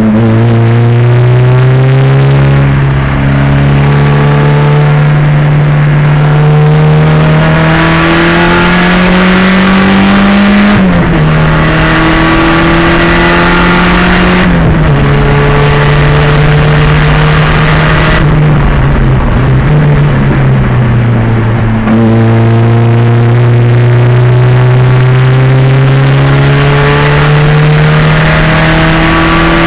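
1987 Pontiac Fiero race car's 2.0-litre turbocharged engine under hard acceleration: the revs climb steadily, drop sharply at an upshift about a third of the way through and again about halfway, fall off slowly as the car slows, then climb once more under power.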